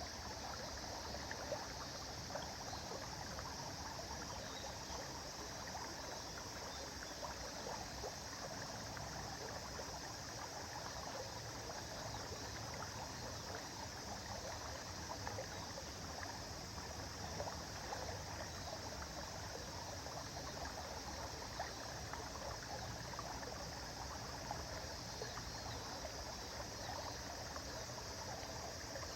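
River water flowing steadily, a continuous rushing with small irregular splashes and trickles.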